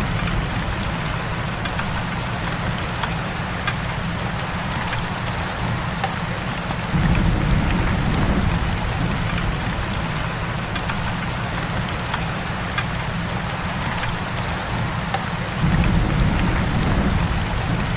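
Heavy rain falling steadily, with scattered sharp drip ticks. A low rumble swells up twice, about seven seconds in and again near the end.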